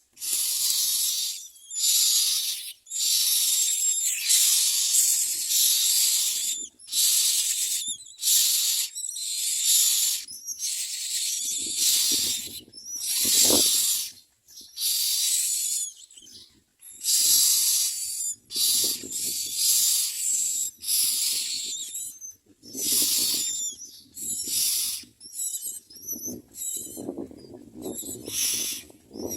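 Myna nestlings begging for food: harsh, hissing rasps in bursts of about a second, repeated over and over with short gaps. A lower, rougher sound runs under some of the later bursts.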